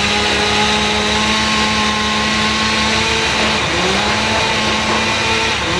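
Petrol engine of tree-removal power equipment running hard at high speed. Its pitch sags about two-thirds of the way in as it takes load, then recovers, and sags again near the end.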